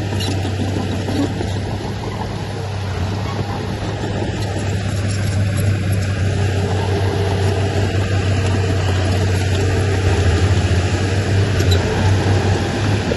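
Heavy earthmoving machine's engine running steadily with a deep, even drone. It grows slightly louder after about five seconds.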